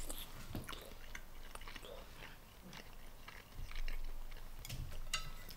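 Close-miked mouth sounds of someone chewing a bite of soft-boiled seasoned ramen egg: soft wet clicks and smacks, a little louder in the last two seconds.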